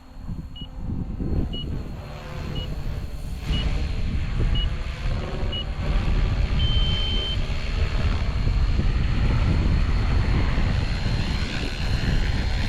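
Electric SAB Goblin 380 RC helicopter running, with a thin steady high whine over a low rushing noise that grows louder from about a second in. Short transmitter timer beeps sound about once a second, then one longer beep about seven seconds in, marking the end of the set flight time.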